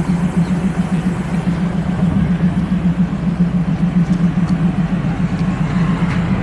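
A vehicle engine running steadily close by: a loud, low hum with a fast pulse.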